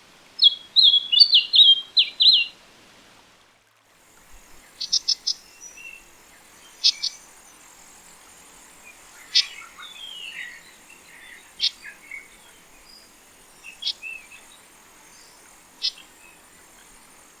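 Small songbirds singing. First comes a quick, bright phrase of whistled notes for about two seconds. After a brief break, sharp high notes repeat every second or two, with softer warbling between them over a steady high buzz.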